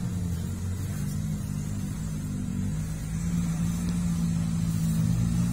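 Suzuki Jimny 4x4's engine running steadily under load as it climbs a dirt track, growing louder near the end.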